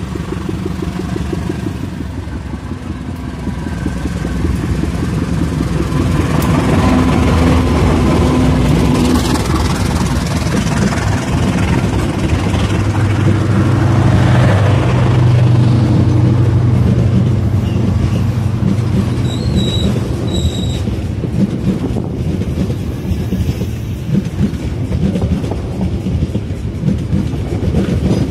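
A passenger train hauled by a GE diesel-electric locomotive approaches and passes close by. The engine drone grows louder over the first several seconds and peaks, with a falling pitch, as the locomotive goes by about halfway through. The coaches follow with a steady clickety-clack of wheels over the rail joints.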